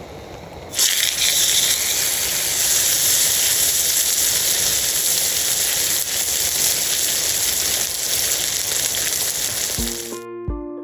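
A loud, steady hiss, like sizzling or rain, starts abruptly about a second in and stops shortly before the end. Acoustic guitar music begins near the end.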